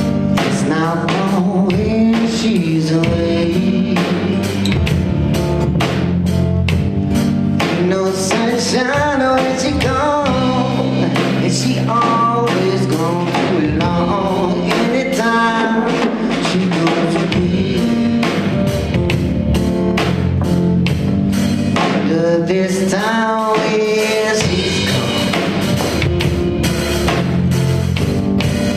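Live band playing: drum kit, bass and guitar in a steady groove, with a wavering, sliding lead melody over the top.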